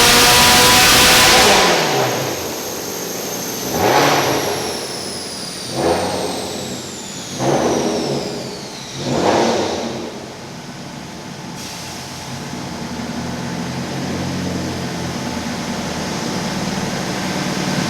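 Subaru WRX STI's turbocharged flat-four on a chassis dyno ending a full-throttle pull: the engine note rises and cuts off about a second and a half in, and a high whine falls away as it winds down. Four short throttle blips follow about every second and a half, then the engine settles to a steady idle.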